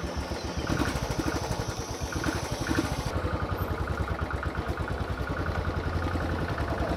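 Motorcycle engine running with a steady, quick beat of exhaust pulses as the bike pulls away and rides slowly down the street.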